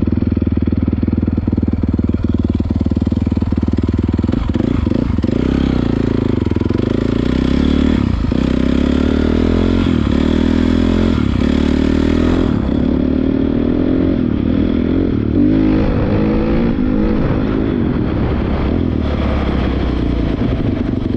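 Honda CRF450R dirt bike's single-cylinder four-stroke engine running while riding, its pitch rising and falling as the throttle is worked.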